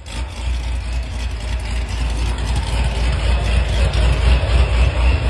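Corvette C7 Z06's supercharged 6.2-litre V8 running at a steady idle: a deep, loud, low rumble that starts abruptly.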